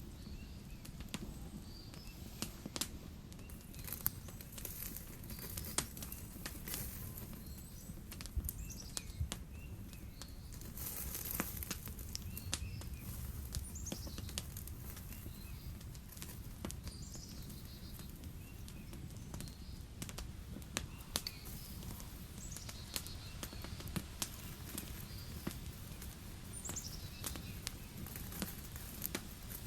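Campfire crackling: irregular sharp pops and snaps over a low steady hiss, with a few faint bird chirps now and then.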